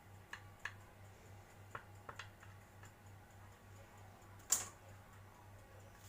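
A few light clicks and taps of a utensil against a plate while cake is cut and served, the loudest a sharper clack with a short scrape about four and a half seconds in.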